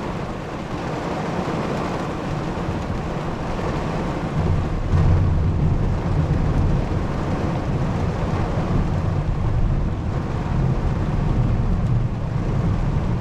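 Thunderstorm: wind-driven rain hissing steadily, with a deep rumble that swells about four seconds in and holds.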